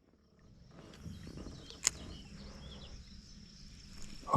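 Pond-side outdoor ambience fading in: a steady high insect drone and a few short bird chirps over a low rumble, with one sharp click a little under two seconds in.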